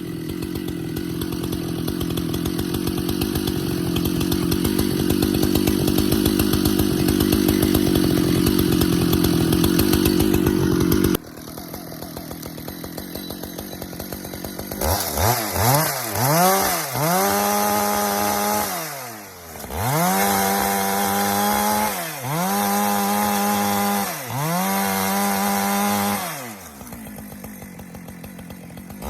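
Husqvarna two-stroke chainsaw ripping along the grain of a big pecan round. It runs steadily under load and grows louder for about eleven seconds, then drops suddenly to idle. From about halfway it is revved up four times, each time rising in pitch and holding at full speed before easing off, and it falls back to idle near the end.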